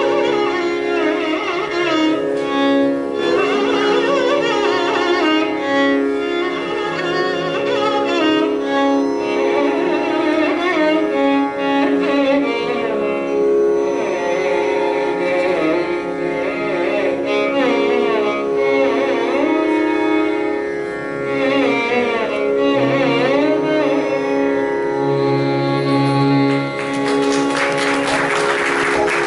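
Carnatic music: a violin plays a gliding, heavily ornamented melodic line over a steady drone. Near the end, rapid percussion strokes come in.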